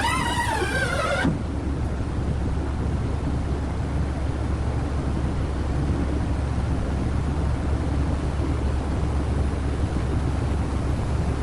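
Steady low rumble of a large engine running, with a short wavering pitched sound, like a call or squeal, in the first second.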